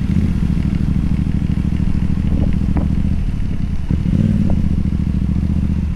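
Motorcycle engine running steadily on the move, with a couple of faint ticks.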